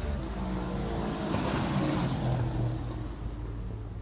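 A vehicle engine running, its pitch gliding down and its sound swelling about a second and a half in.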